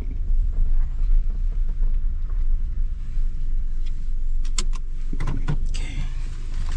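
A car driving: a steady low rumble of engine and road noise, with a few sharp clicks and rattles about two thirds of the way through.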